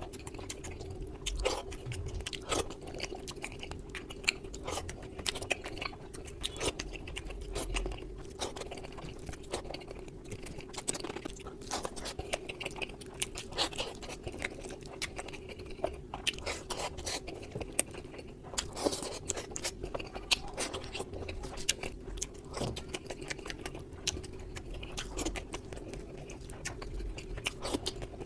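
Close-miked eating of rice and chicken curry: continuous chewing and crunching with irregular wet mouth clicks, sped up to double speed, over a steady low hum.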